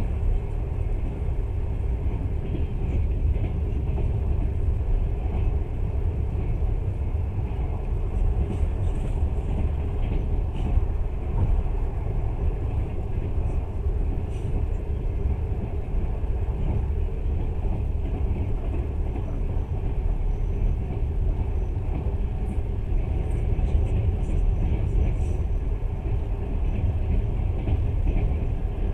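Moving passenger train heard from inside the carriage: a steady low rumble of wheels and running gear on the track.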